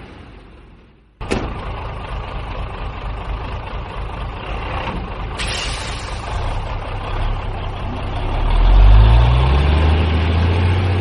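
Truck engine running, starting abruptly about a second in. A short sharp hiss comes midway, and near the end the engine revs up in a rising pitch.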